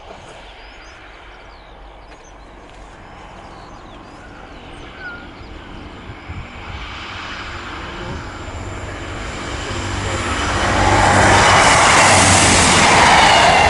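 British Rail Class 158 diesel multiple unit approaching and passing close by. Its engine and wheel noise grows steadily louder over the second half to a loud peak near the end.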